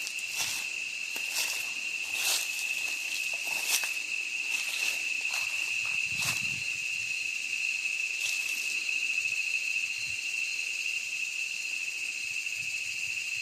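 Insects droning steadily on one high pitch over a hiss of further insect noise, with occasional footsteps crunching through the forest floor during the first two-thirds.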